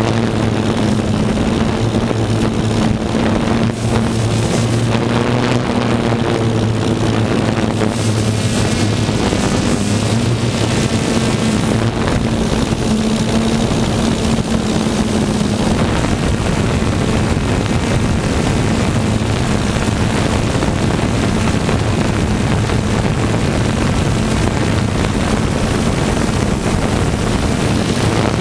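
Pulling tractor's engine running loud and steady at constant revs throughout.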